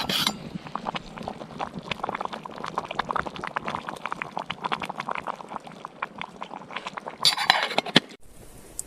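Dense sizzling and popping of food cooking in a pan over a campfire, with a louder burst of noise near the end before it cuts off suddenly.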